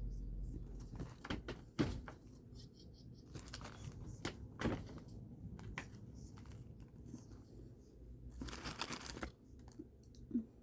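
Food packaging being handled and crinkled, with scattered clicks and knocks and a longer rustle about nine seconds in.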